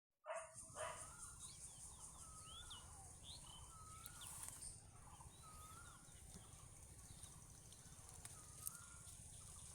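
Faint outdoor birdsong: short curved chirping calls repeated about once a second, over a steady high insect-like hiss and a low background rumble.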